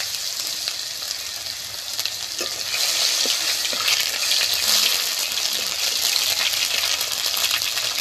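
Chopped tomato sizzling in hot mustard oil with nigella seeds in a kadai. From about three seconds in, a flat spatula stirs it, scraping and tapping lightly against the pan.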